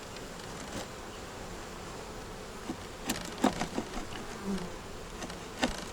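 Honey bees buzzing steadily around an open hive, with a few short sharp clicks and scrapes of a hive tool prying propolis on the wooden frames, clustered a little past the middle and once more near the end.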